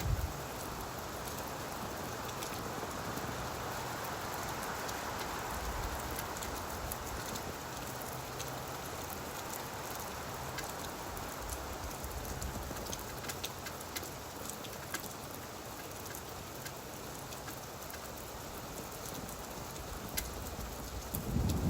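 Steady gentle rain falling on leaves, with many single drops ticking sharply through the hiss. A low rumble swells in near the end.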